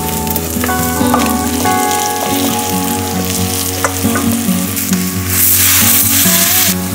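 Frying in a clay pot over an open fire: oil and spices sizzling, with small clicks of a spoon stirring. Near the end a louder rush of hissing as water is poured into the hot pot.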